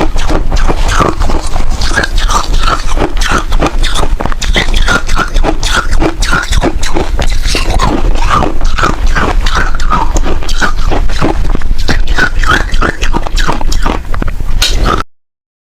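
Close-miked biting and chewing of crunchy freezer frost: a dense, continuous run of crackling crunches that cuts off suddenly near the end.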